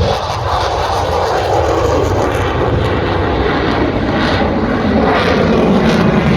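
Military jet aircraft flying past during an airshow display, a loud steady engine roar that builds slightly toward the end.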